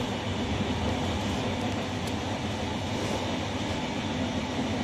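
Steady running noise of a moving electric train, heard from inside the passenger carriage: an even rumble of wheels on the rails.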